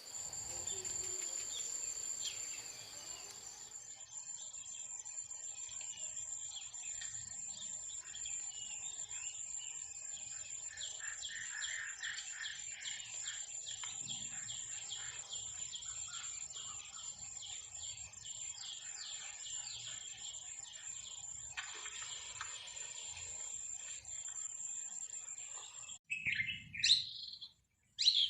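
Forest ambience: many small birds chirping and calling over a steady, high-pitched insect trill. Near the end the trill drops out and a few louder bird calls come after a brief gap.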